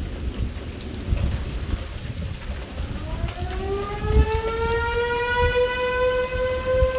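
Heavy rain falling with low rumbles. About three seconds in, an outdoor tornado warning siren starts winding up: its pitch rises and then levels off into a steady tone.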